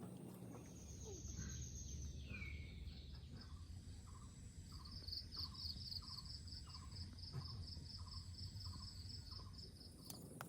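Birds and insects calling: a short falling note repeated about every two-thirds of a second, with a fast, high pulsed trill, over a low rumble.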